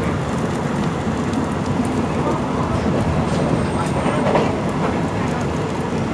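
Train running along the track: a steady, dense rumble with a few faint clicks.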